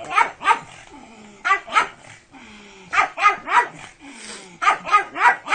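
A pug barking in quick runs of two to four short, sharp barks, a fresh run about every second and a half.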